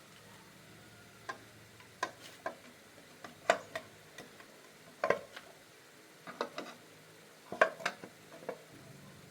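Irregular short clinks and knocks, some in quick pairs or clusters, of hand tools and metal engine parts being handled during a small motorcycle engine strip-down.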